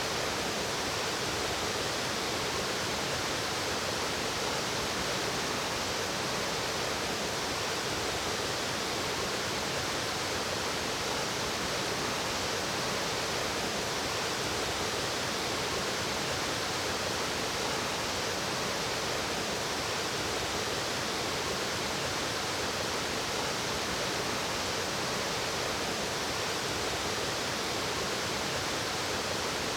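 Steady, even rush of flowing water in a mountain stream.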